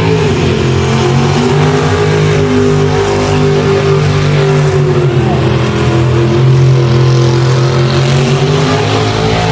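A car engine running hard at sustained high revs, its pitch sagging a little around the middle and climbing back.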